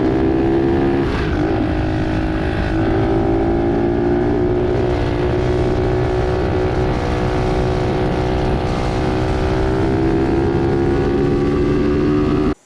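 Cheap Chinese 125cc pit bike's single-cylinder four-stroke engine running hard at high revs, steady in pitch apart from a brief dip about a second in, cutting off abruptly near the end.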